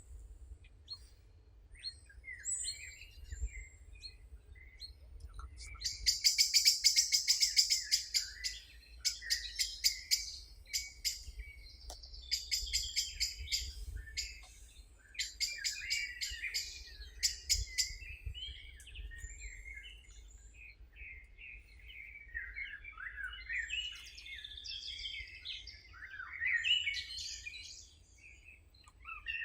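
Several songbirds singing and chirping. From about six seconds in, one bird sings loud, fast, high trills in several bouts over roughly twelve seconds, while softer chirps and warbles from others run on around them. A faint low rumble lies underneath.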